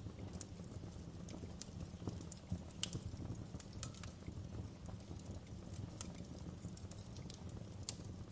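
Fire crackling: irregular sharp pops and snaps, with a couple of louder ones about two and a half to three seconds in, over a steady low rumble.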